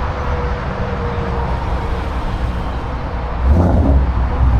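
Outdoor car-show background noise: a steady low rumble, with a louder low-pitched swell for about a second near the end, like a car engine close by.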